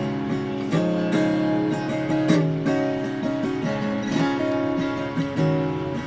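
Acoustic guitar strumming chords, with notes ringing on between strums.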